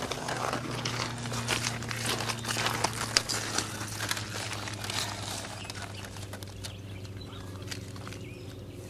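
Irregular rustling and crackling with many small clicks, thinning out after about six seconds, over a steady low hum.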